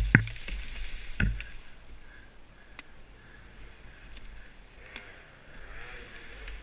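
Off-road motorcycle on a wooded trail: sharp knocks right at the start and again about a second in, then a low, steady rumble with hiss.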